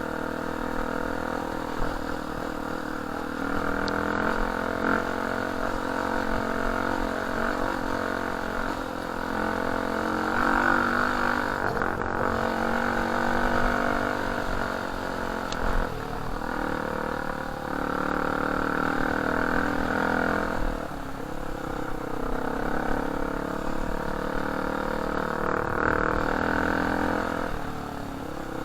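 Dirt bike engine running while being ridden, its note rising and falling with the throttle.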